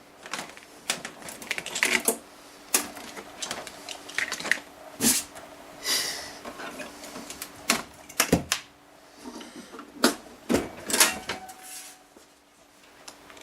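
Irregular clicks, knocks and a short scrape from a desktop computer case being handled as its metal lid is unlatched and taken off.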